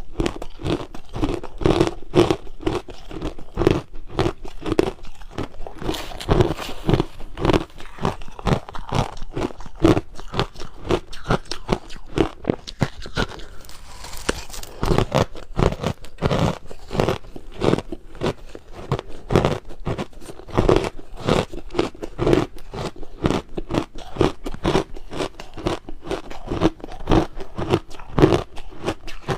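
Crushed ice being bitten and chewed close to the microphone: a fast, continuous run of crisp crunches, several a second, easing off briefly about halfway through.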